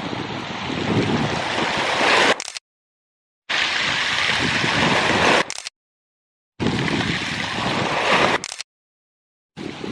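Sea water washing and gurgling over a rocky shore, a steady rushing noise with wind on the microphone. It cuts off to dead silence three times and restarts each time.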